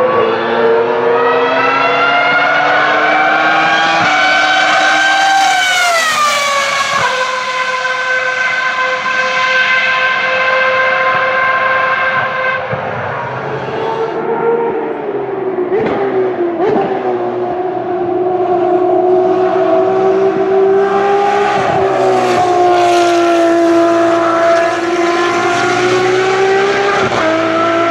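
Ferrari race car engine at high revs, its pitch climbing for the first six seconds, then dropping sharply at an upshift and holding steady. Later the pitch falls and rises again with further gear changes and throttle.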